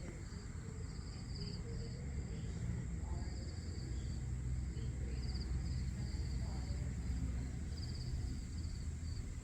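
Crickets and other insects chirping in short, repeated pulsing trills over a steady high insect drone, with a low background rumble underneath.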